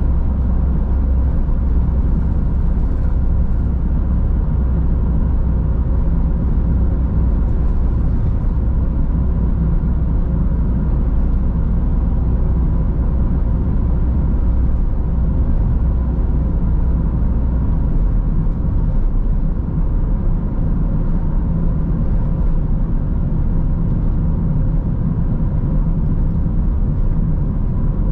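Car driving on a road: a steady rumble of engine and tyres, whose low drone shifts down in pitch about two-thirds of the way through.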